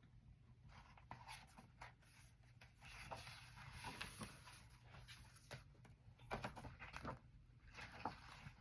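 Faint rustling and soft clicks of paper book pages being handled and turned, heaviest about halfway through.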